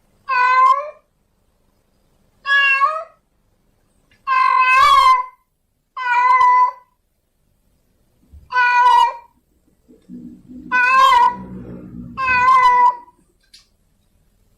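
Female domestic cat in heat calling for a male: seven drawn-out meows, one about every two seconds, the third the longest.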